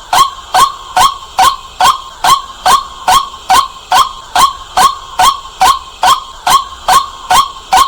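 White-breasted waterhen calling: a loud, steady series of short, sharp notes, close to three a second, each hooking down in pitch.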